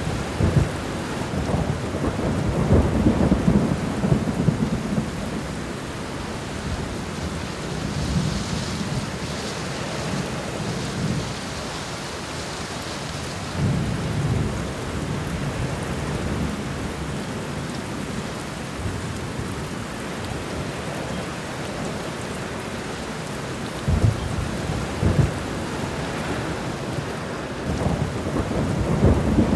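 Thunderstorm: steady rain with thunder rolling in low rumbles, heaviest in the first few seconds and again near the end, with a softer rumble about halfway through.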